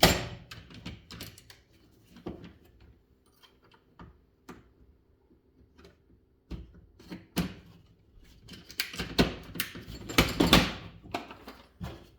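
Clicks, knocks and clatter of fan parts and tools being handled while a box fan is taken apart, busiest near the start and in the second half, over a faint steady hum.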